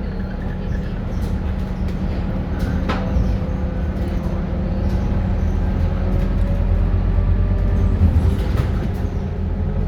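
Diesel engine of a Scania K230UB single-deck bus running under way: a steady low drone with faint whining tones above it, and a short click about three seconds in.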